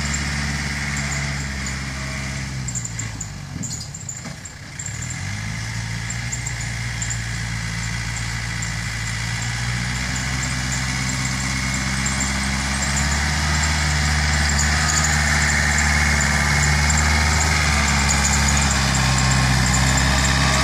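Yanmar EF 494T tractor's diesel engine running steadily; about four seconds in its speed dips briefly and comes back up, and it runs a little louder in the second half.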